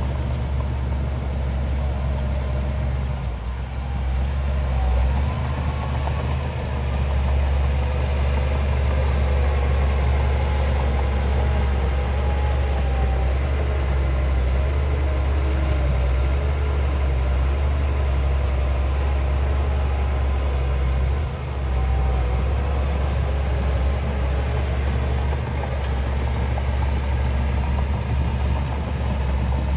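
Heavy diesel engine of earthmoving machinery running steadily, a deep continuous rumble with faint wavering higher tones over it.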